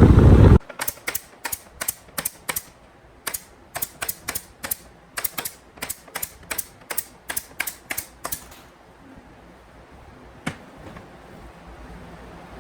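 A loud steady noise stops about half a second in, then a rapid run of about thirty sharp taps, roughly three a second, for about eight seconds, with one more tap later on.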